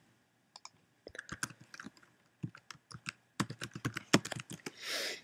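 Typing on a computer keyboard: irregular keystroke clicks that start about a second in and come thickest in the second half, followed by a short soft hiss near the end.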